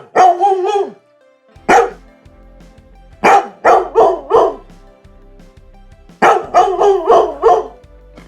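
Dog barking in runs of several quick barks, with pauses of a second or two between runs, over faint background music.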